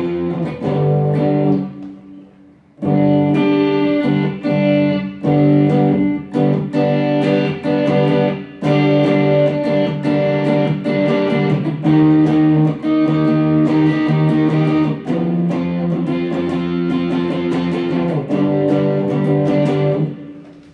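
Electric guitar played through a Mooer GE100 Pro multi-effects unit: chords and single notes on a preset patch. The playing breaks off about 2 s in, starts again about a second later, and stops near the end.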